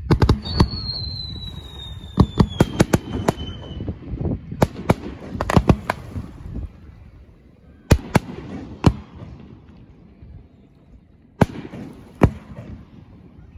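Aerial fireworks going off: a string of sharp bangs and pops in clusters, with a thin whistle that falls slowly in pitch over about three seconds near the start.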